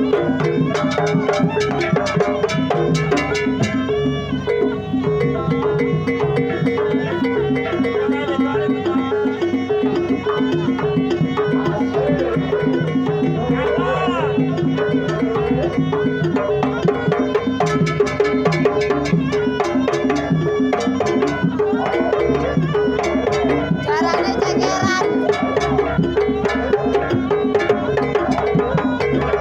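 Jaranan pegon dance music: drums and pitched percussion beating out a steady, repeating pattern, with a melody line weaving over it.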